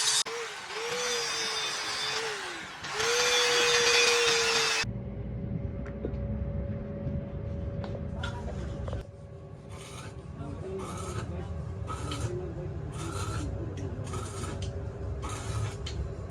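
Hand-held electric power tool running and working a part, its motor pitch dipping and recovering under load. After a sudden change, a low rumble follows, with a run of short, even strokes about one a second.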